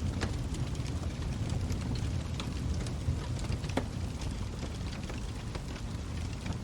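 Log fire burning, with irregular sharp crackles and pops over a steady low rumble of the flames.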